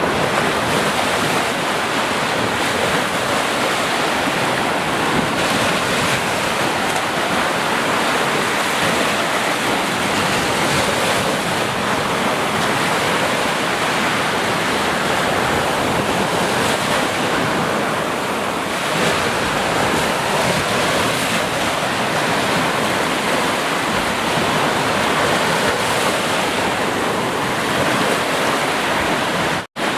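Sea waves breaking on a shore as a continuous surf wash, swelling gently. It cuts out for an instant just before the end.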